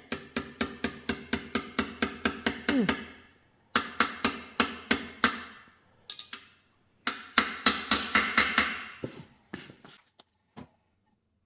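Rapid metal-on-metal tapping, about five evenly spaced strikes a second, each ringing briefly, in three runs with short pauses, then a few single taps near the end.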